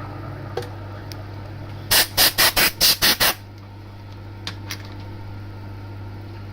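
A compressed-air blow gun fires seven quick hissing blasts in about a second and a half, clearing swarf from a freshly drilled hole, over the steady low hum of the milling machine.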